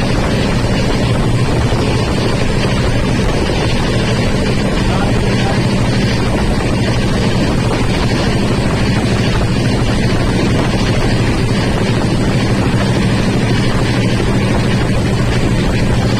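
Train running with a steady, loud rumble and a low hum that does not change.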